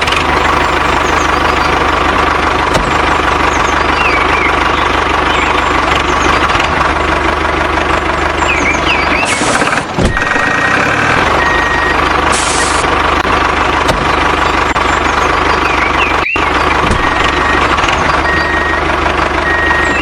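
Vehicle engine running steadily, with short repeated beeps like a reversing alarm coming in at intervals, from about ten seconds in.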